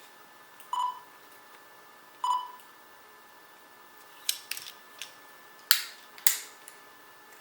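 Two short electronic beeps about a second and a half apart from a Qidi X-Plus 3 3D printer while it warms up, followed by a handful of sharp clicks and taps. A faint steady high whine runs underneath.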